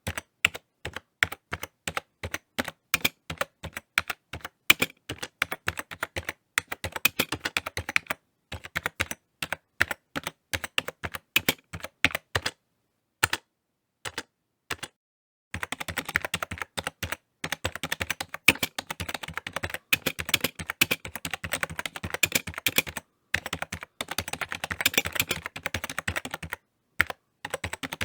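Typing on a computer keyboard: rapid runs of key clicks in uneven bursts, with short pauses about a third of the way in and again around the middle, then faster, denser typing.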